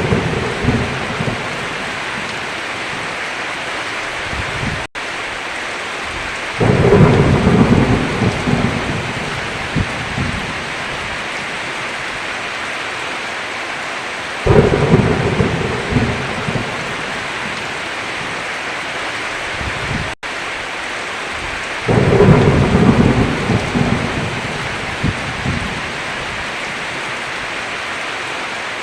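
Steady heavy rain with rolling thunder: three claps of thunder start suddenly and rumble away over several seconds, about every seven to eight seconds. The sound drops out for an instant twice.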